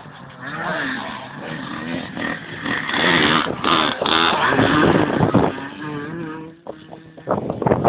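Small motocross bike engines revving, their pitch rising and falling repeatedly. About six seconds in the note settles lower and steadier, and near the end there are sharp, loud blips of throttle.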